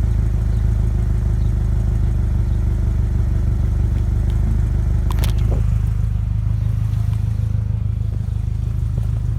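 The loud exhaust of a 1996 Ford Ranger's 2.3-litre four-cylinder engine, running steadily at an even speed, with a brief sharp click about five seconds in.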